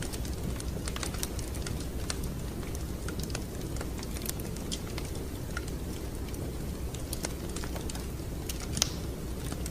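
Wood fire crackling in a fireplace: irregular sharp pops and snaps over a steady low rumble of flame, with one louder pop near the end.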